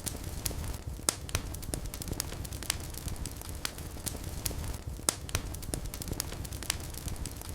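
Fireplace fire crackling, with irregular sharp pops several times a second over a low steady rumble of the flames.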